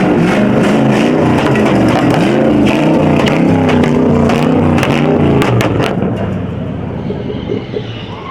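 Muscle car engine revving hard, its pitch climbing and dropping again and again, with a run of sharp cracks about five to six seconds in; it eases off near the end.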